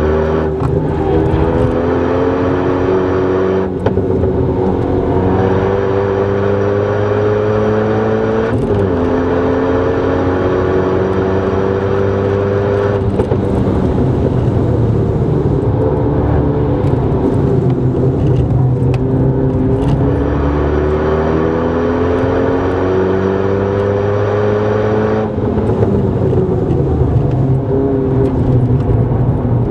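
Renault Mégane R26's 2.0-litre turbocharged four-cylinder engine heard from inside the cabin, its note climbing under hard acceleration and dropping back at each of several gear changes.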